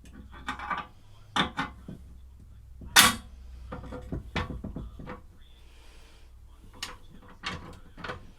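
Tools and metal parts being handled on a workbench: a series of clicks and knocks, the loudest about three seconds in.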